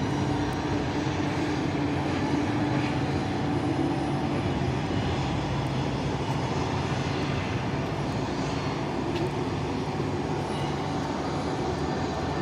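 Jet airliner engines running at a distance: a steady roar with a thin high whine that fades over the first few seconds.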